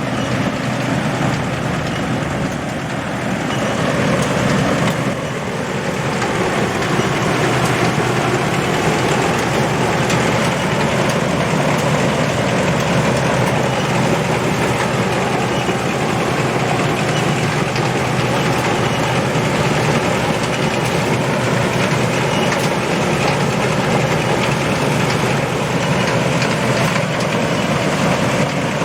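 Combine harvester engine and machinery running steadily, with a slight dip in level a few seconds in.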